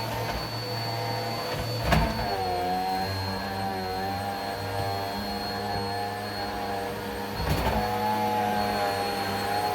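Vacuum cleaner running steadily, its motor whine wavering a little in pitch as the load on it changes, with a knock about two seconds in and another past seven seconds.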